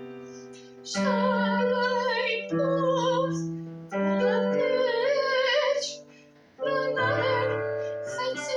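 A woman singing in a classical, operatic style with wide vibrato over piano chords, in three sustained phrases separated by brief pauses.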